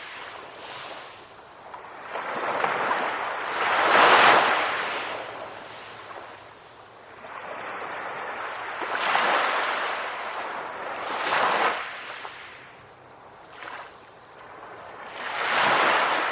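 Ocean waves breaking on the shore and washing back, each wash swelling up and fading away every few seconds. The biggest surge comes about four seconds in.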